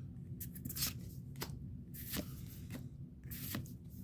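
Pokémon trading cards being slid and flipped over one another by hand, a series of short papery swishes.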